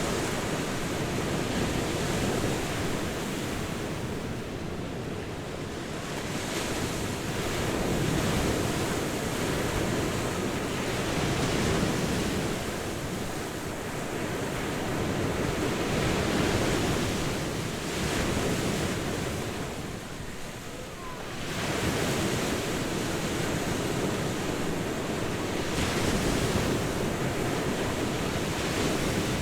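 Ocean surf breaking on a beach, a steady wash that swells and eases as each wave comes in, every four or five seconds, with a short lull about two-thirds of the way through.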